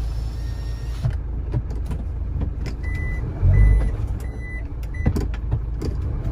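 Heavy truck's engine running with a steady low rumble that surges briefly about halfway through, with four short high beeps of a reversing alarm in the middle and scattered sharp clicks.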